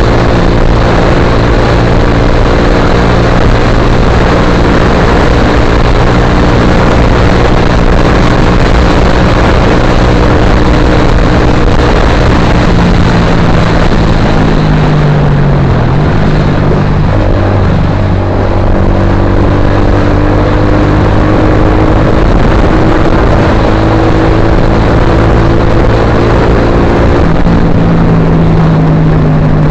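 Suzuki GSX-R150's single-cylinder engine running through an aftermarket Akrapovic-style silencer, loud and at fairly steady revs. The pitch dips about halfway through, then holds steady again.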